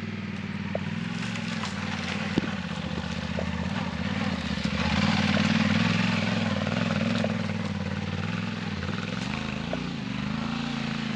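Motorcycle engine running at low revs, growing louder about five seconds in and easing back, its pitch wavering near the end, with a few light knocks.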